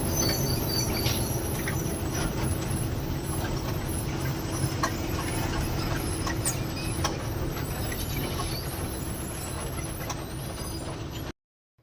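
Lorry's diesel engine running with a steady low rumble, with scattered small clicks and rattles; it cuts off abruptly near the end.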